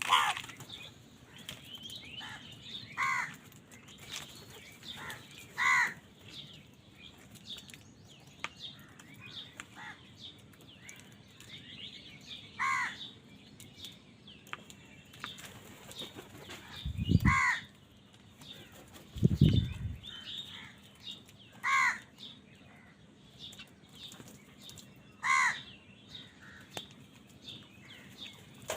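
Crows cawing: about six short, harsh calls a few seconds apart, over fainter bird chirps. Two brief low rumbles come around the middle.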